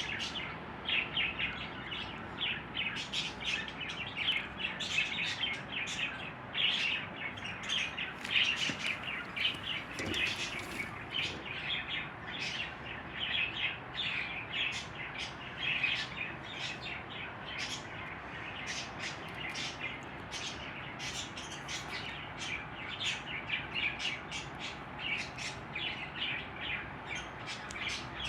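A group of budgerigars chirping and chattering continuously, a rapid run of short, high chirps.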